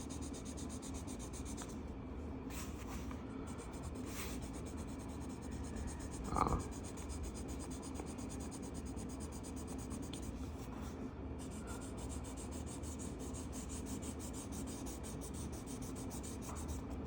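Dry coloring strokes scratching and rubbing steadily across a paper coloring-book page, with one brief louder sound about six and a half seconds in.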